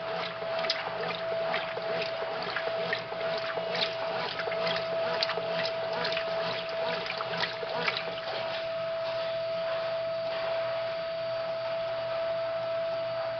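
Brastemp Mundial washing machine running with a steady hum, water splashing and sloshing inside the tub; the splashing eases about eight seconds in, leaving a steadier wash of water noise under the hum.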